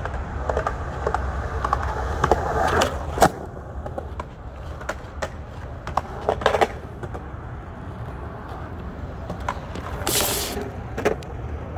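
Skateboard wheels rolling with a steady rumble, broken by sharp clacks of the board about three seconds in, in a quick cluster around six and a half seconds, and again near the end. About ten seconds in there is a short scrape.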